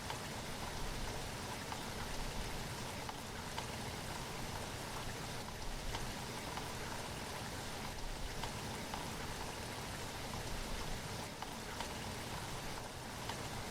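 Steady rain falling, with scattered individual drops tapping through the even hiss.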